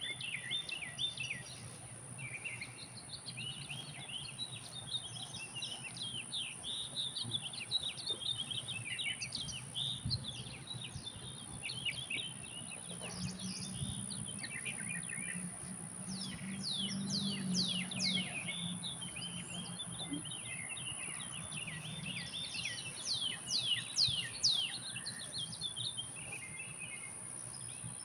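Several songbirds chirping and twittering, with runs of quick downward-sliding whistled notes, over a steady high-pitched hiss.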